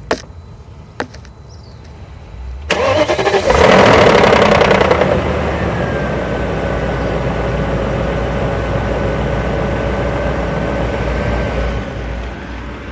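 2001 BMW 740iL's 4.4-litre V8 started from cold: after a couple of faint clicks, the starter cranks briefly, the engine catches and flares up loudly, then settles into a steady fast idle with a constant whine over it. This is the cold-start engine rattle the owner is showing.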